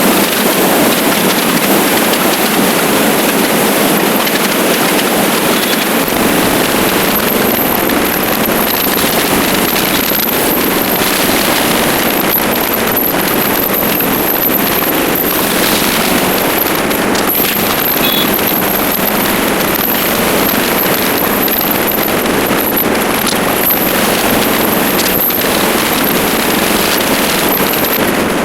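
Steady, loud rush of wind and road noise on the microphone of a motorcycle being ridden at speed, with the engine running underneath.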